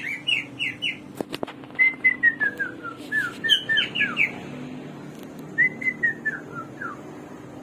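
Chinese hwamei (garugiwa) singing: three phrases of quick, repeated downslurred whistled notes, each phrase stepping down in pitch. A couple of short clicks come about a second in.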